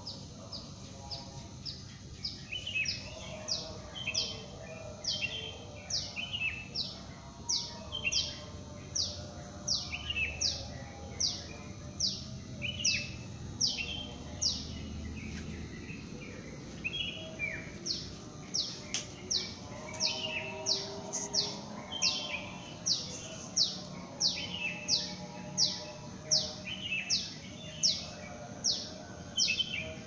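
A bird calling over and over: short, high, sharp notes that slide steeply downward, about one or two a second, with a brief pause around the middle.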